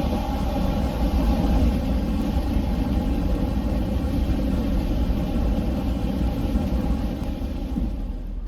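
Steady rumble of a vehicle's engine and road noise heard from inside the cab while driving in the rain, with a hiss over it that thins out near the end.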